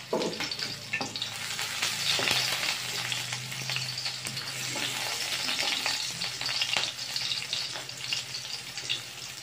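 Chopped garlic and onion sizzling steadily in hot oil in a wok, stirred with a spatula that scrapes and clicks against the pan.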